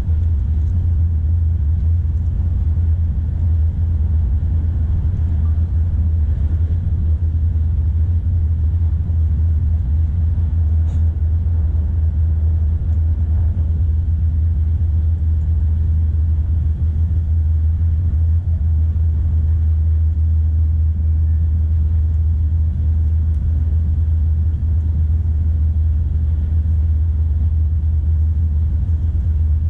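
Tokaido Shinkansen running at speed, heard inside the passenger car: a steady low rumble of cabin running noise.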